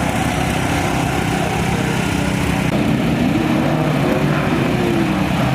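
BMW drift car's engine held at high revs during a drift, its pitch rising and then falling in the second half. Heavy wind noise on the microphone.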